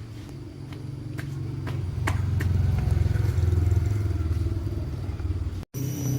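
An engine running with a steady low drone, growing louder over the first two seconds and then holding, with a few sharp clicks and knocks over it.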